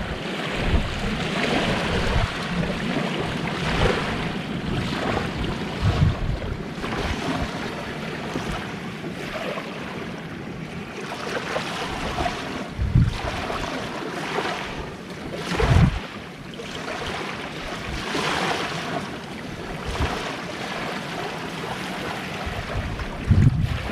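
Small waves washing onto the shore in repeated swells, with gusts of wind buffeting the microphone now and then.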